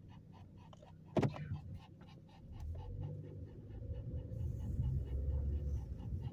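Dog panting rapidly in an even rhythm, with one sharp knock about a second in. A low rumble grows from about two and a half seconds in.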